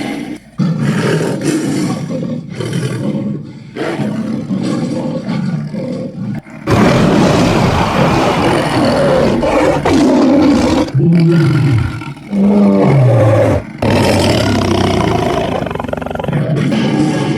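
Sound-effect roars of a giant dragon-like monster: several long, loud, growling roars one after another, separated by brief breaks. Some of the roars sweep down in pitch in the middle of the run.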